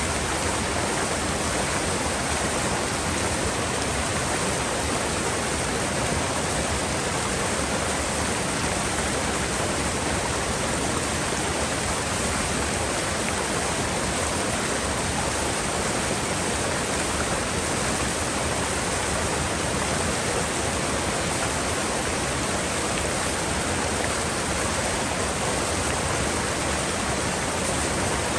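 Mountain river water rushing steadily over rocks, a constant dense rush with no change.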